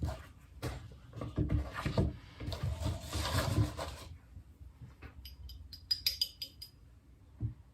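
Small objects being handled and knocked, with rubbing, then a quick run of about a dozen light clicks with a thin ringing note, and one last soft knock near the end.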